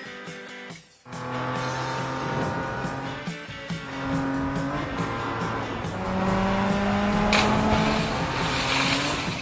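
Cartoon race car engine sound effects revving, their pitch gliding upward as the cars speed up, over background music. A hissing tyre-squeal noise joins in the last two seconds.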